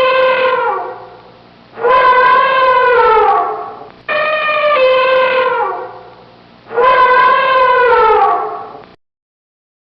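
Elephant trumpeting: four long calls in a row, each holding a steady pitch and then sliding down as it ends. The calls stop about a second before the end.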